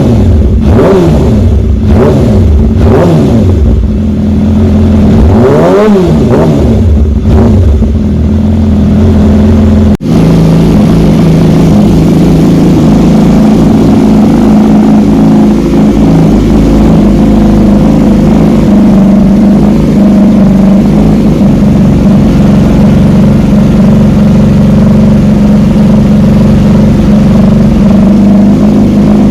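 600 cc inline-four supersport motorcycle engine being revved repeatedly, its pitch climbing and dropping several times, then after a sudden cut about ten seconds in, an engine running at a steady pitch.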